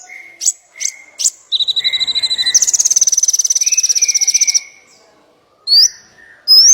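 Small songbirds calling: sharp rising whistled chirps, then a steady whistled note that gives way about midway to a fast, rapidly pulsed trill lasting about two seconds, and more rising chirps near the end.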